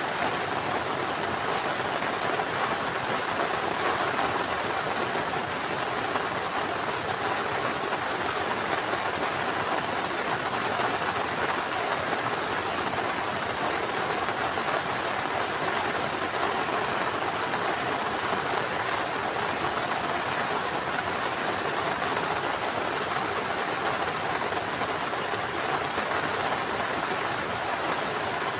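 Heavy rain falling and pattering on surfaces, a steady even downpour with scattered sharper drop ticks.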